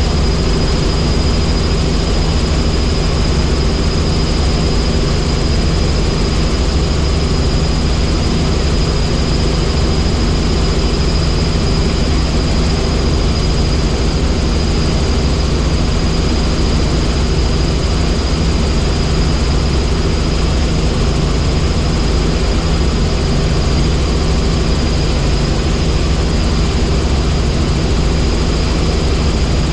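Helicopter in flight: a loud, steady drone of rotor and engine with a thin high whine running through it.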